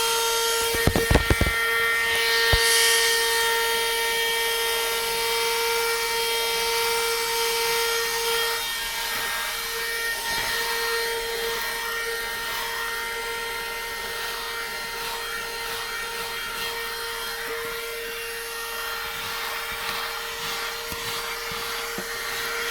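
Niecarva 12-volt handheld car vacuum running with a steady high-pitched motor whine while it is worked over the car interior. A quick cluster of sharp knocks comes about a second in.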